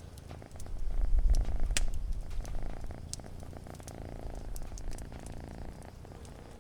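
Domestic cat purring close up, a steady low rumble that swells about a second in and then slowly eases. A few faint sharp crackles of a wood fire sound over it.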